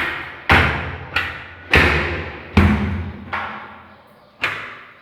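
A series of heavy thuds, about seven at uneven intervals, each ringing out and dying away.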